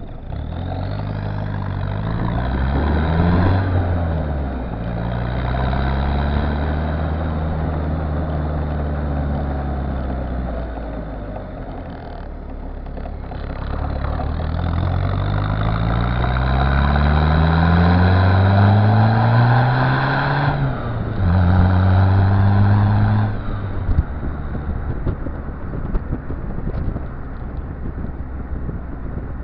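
Citroën Visa's swapped-in XUD7TE four-cylinder turbo diesel running through its exhaust under way: the engine note climbs, eases off, then climbs steadily for several seconds before a sudden drop in pitch like a gear change. Near the end the engine sound falls away into rough road or wind noise.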